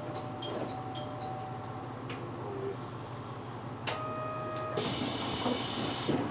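JR Shikoku one-man train at the stop: a run of quick high electronic beeps that ends about a second in, a short buzzer tone about four seconds in, then a loud hiss of compressed air as the pneumatic doors open.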